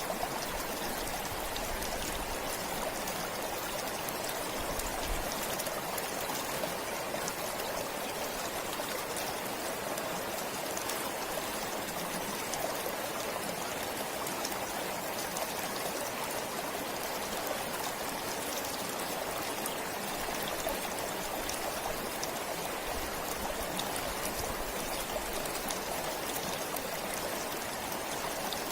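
Forest stream flowing steadily, a constant rushing babble of water with small trickles and splashes.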